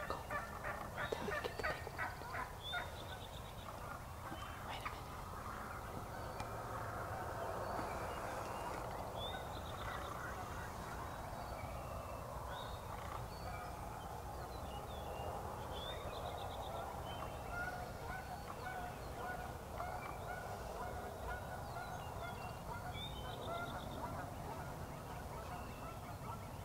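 Wild turkey gobbling in a rapid rattle about a second in, followed by a long stretch of many softer short turkey calls. A small songbird's short high trill repeats every six or seven seconds.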